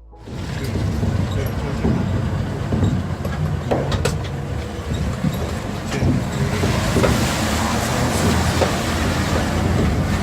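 A motor vehicle running, a steady engine and road rumble with scattered knocks and rattles.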